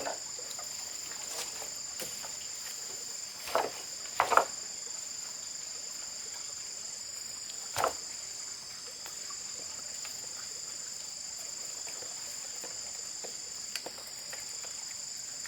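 Steady high-pitched chorus of insects, with a few short knocks or rustles, the loudest about four seconds in.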